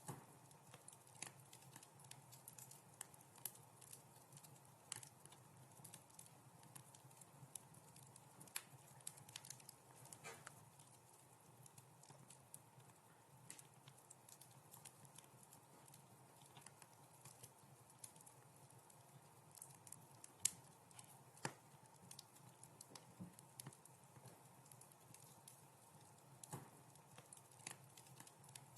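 Quiet wood fire crackling: irregular sharp pops and snaps over a faint steady background, with one louder pop about two-thirds of the way through.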